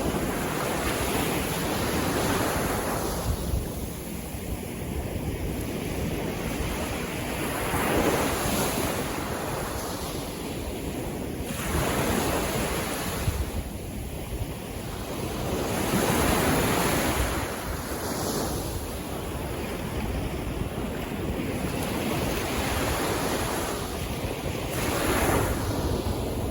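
Sea waves washing in and out, the surf swelling and falling back every few seconds, with wind buffeting the microphone.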